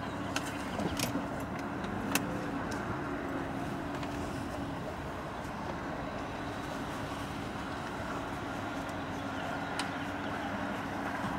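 Car engine idling, a steady low hum heard from inside the cabin, with a few light clicks in the first two seconds.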